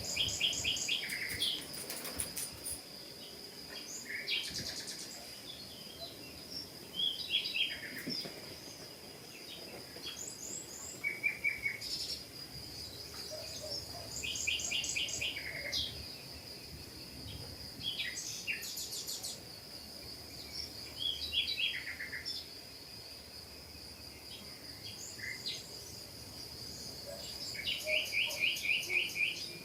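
Small songbirds calling and singing, with repeated short runs of quick high chirping notes every few seconds, over a steady high-pitched tone.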